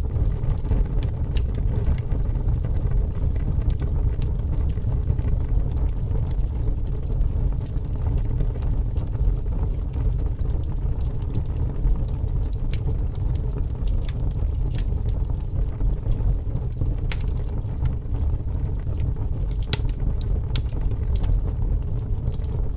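Fire burning: a steady low rumble of flames with scattered sharp crackles and pops, a few of them louder in the later part.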